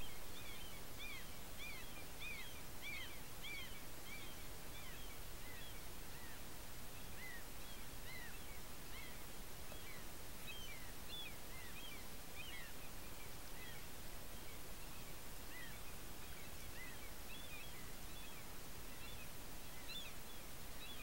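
Small, high chirping bird calls, several a second at first and then more scattered, over a steady hiss from the trail camera's microphone.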